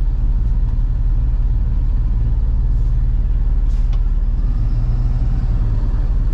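Box truck engine running with a steady low drone, with a faint click about four seconds in.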